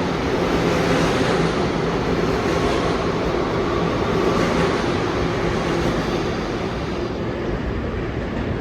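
New York City subway train running through the station: a steady, loud rail rumble with a few held motor hum tones, easing a little near the end.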